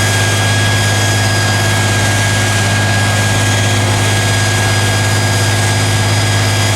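Tatra 813's air-cooled V12 diesel engine running at a steady speed: a loud, constant deep hum with a high, steady whine over it.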